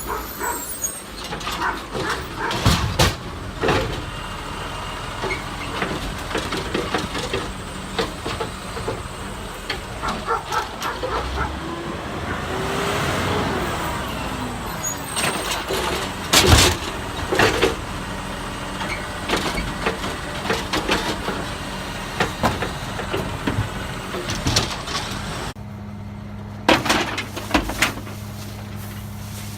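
Garbage truck at work: engine running with repeated clanks and knocks, the loudest about halfway through. Near the end the sound changes to a steady low hum.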